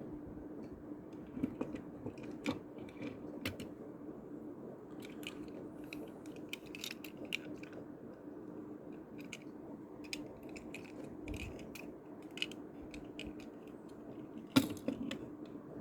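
Scattered small clicks and taps from die-cast toy cars being handled, with one sharper, louder click about a second before the end, over a steady low hum.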